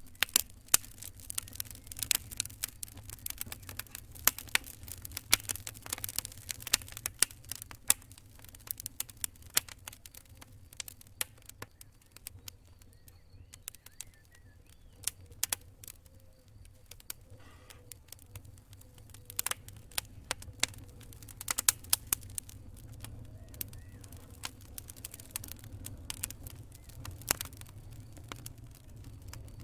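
Campfire burning, with irregular crackles and sharp pops from the wood coming in clusters over a low, steady rumble.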